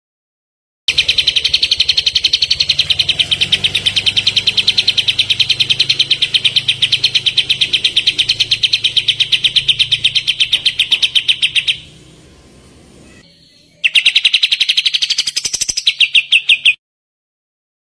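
Kapas tembak songbird giving its rapid 'tembakan' song: a long, fast rattle of evenly repeated high notes. It breaks off briefly about twelve seconds in, then resumes and cuts off suddenly near the end.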